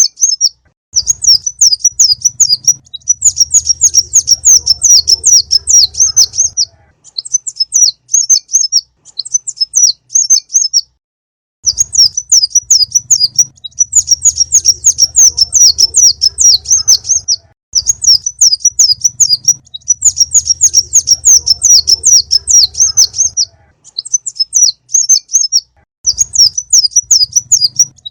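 Konin, a small sunbird, singing a lure song: fast, loud runs of high chirps strung into phrases of a few seconds, broken by short pauses, with a faint low hum beneath the longer phrases.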